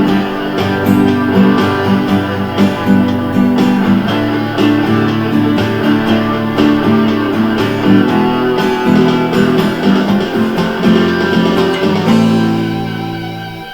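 Instrumental guitar outro: strummed chords, ending about twelve seconds in on a final chord that rings and fades away.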